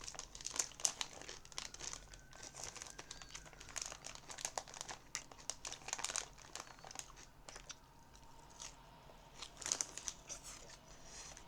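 Plastic salad bag crinkling and rustling as it is handled, in irregular crackles, with a louder burst about a second in and another near the end.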